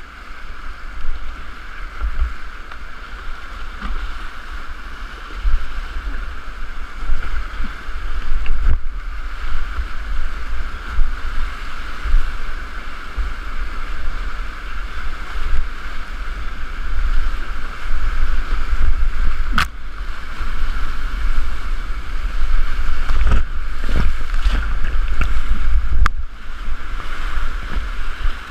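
Rushing river whitewater heard from a kayak, with wind buffeting the microphone in gusts. A couple of sharp knocks stand out in the second half.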